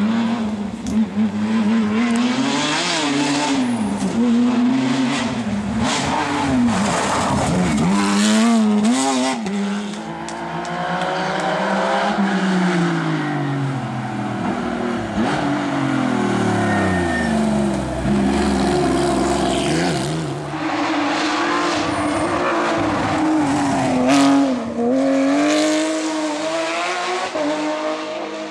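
Porsche 911 rally car's flat-six engine revving hard, its pitch rising and falling over and over through gear changes, with one long drop in pitch past the middle.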